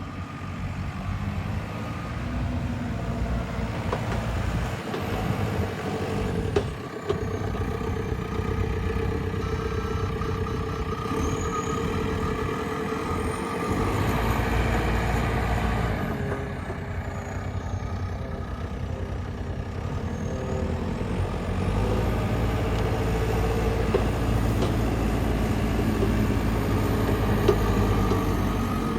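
Diesel engine of a JCB 3CX backhoe loader running, its note rising and falling, louder for a stretch about halfway through and again through the last third.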